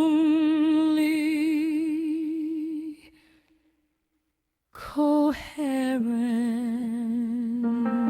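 A wordless sung voice holding a long note with steady vibrato, which stops about three seconds in. After a second or so of silence it comes back with a short note and then settles into another long vibrato note on a lower pitch. Faint instrumental notes join near the end.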